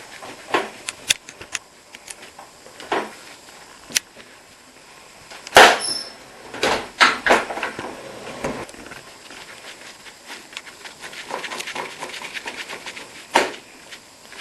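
Clicks and knocks of dishwasher housing parts and screws being handled and screwed back in by hand. A sharp knock comes about five and a half seconds in, then a run of faint quick ticks later on.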